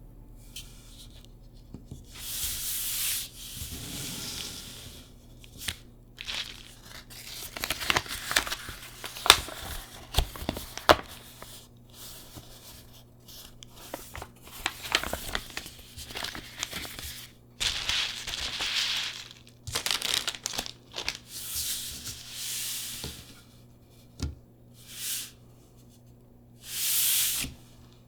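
Hands unpacking a graded card submission: tape and plastic wrapping being peeled and torn, crinkling and rustling in bursts, with many sharp clicks and taps as the pieces are handled.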